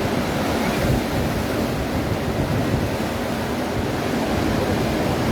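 Steady rush of Atlantic surf on the beach, with wind buffeting the microphone.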